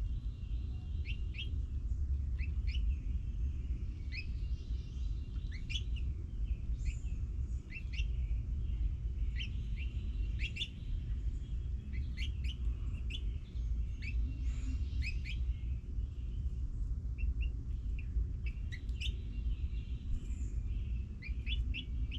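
Small birds chirping: many short, quick rising chirps in loose clusters, over a steady low rumble.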